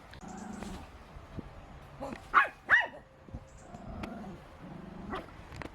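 A dog barking: two short, sharp barks close together about two and a half seconds in, with fainter, lower sounds before and after them.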